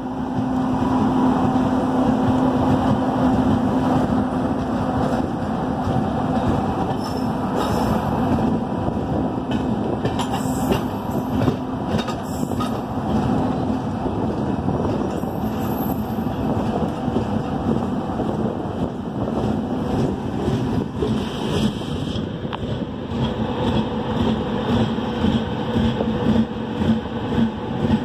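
Two passenger trains running side by side at speed, heard from a moving train: a steady rumble of wheels on rail with a low drone. There are a couple of sharp clicks about ten and twelve seconds in.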